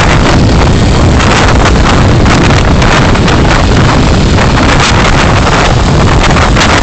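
Steady road and engine noise of a car being driven, picked up by a dashcam microphone, with wind buffeting the microphone.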